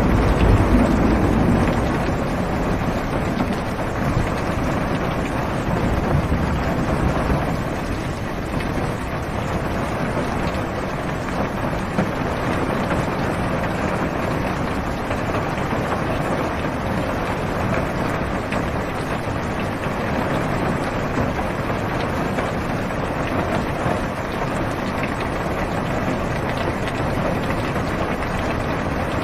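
Steady heavy rain falling on a car's roof and windows, heard from inside the car, with low rumbles of thunder at the start and again about six seconds in.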